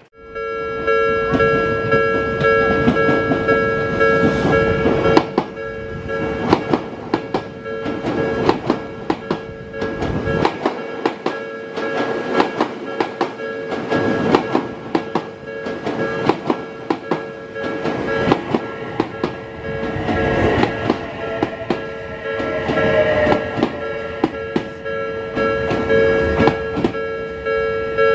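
Odakyu 3000 series ten-car electric train passing over a level crossing, its wheels clacking over the rail joints continuously. Under the clacking, the crossing's electronic warning bell rings steadily on two close pitches.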